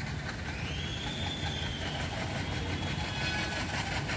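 A train running at the station with a steady low rumble. A single high-pitched squeal rises about half a second in, holds for about three seconds, then fades.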